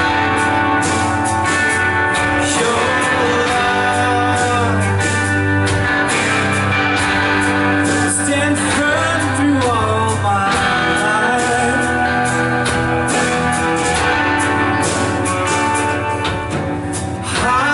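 Live worship band playing a slow song: sustained bass and guitar chords with regular drum and cymbal strikes, under a singer's held, wavering vocal lines.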